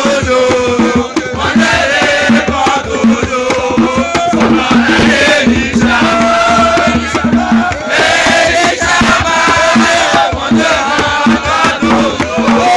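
A crowd of voices singing and chanting together over rapid, steady percussion.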